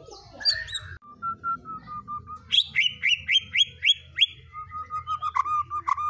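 A songbird singing a string of sharp whistled notes. About two and a half seconds in comes a run of about seven quick rising notes, and near the end a fast run of repeated chirps.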